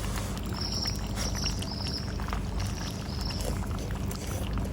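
Outdoor ambience: a steady low rumble with scattered light ticks, and a short high chirp repeating several times.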